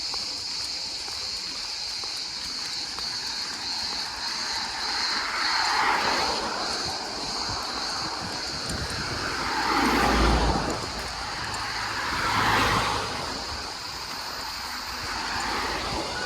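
Outdoor ambience: a steady high-pitched drone, with three rushing swells rising and falling about six, ten and twelve seconds in, the middle one loudest and carrying a low rumble.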